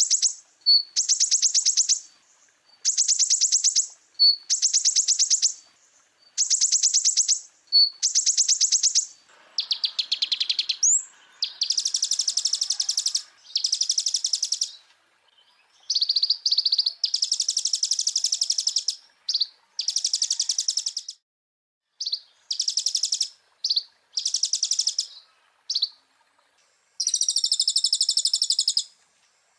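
Konin (kolibri ninja) sunbird singing: high, fast-trilled bursts of song. For the first several seconds they come at an even pace of about one a second, then give way to longer, varied runs of trills and chips with short pauses between them.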